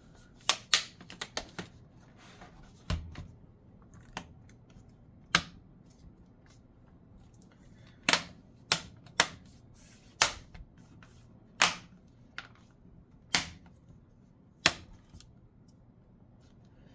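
Plastic laptop bottom case being pressed into place, its clips snapping shut in a dozen or so sharp clicks at irregular intervals.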